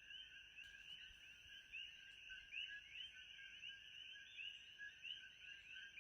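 Faint ambience of many overlapping short chirping calls, several a second and without pause, over a thin steady high tone, like a nighttime chorus of frogs or insects.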